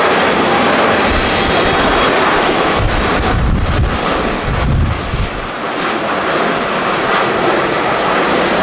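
Jet airliner engines making a loud, steady rushing noise, with gusts of strong wind buffeting the microphone.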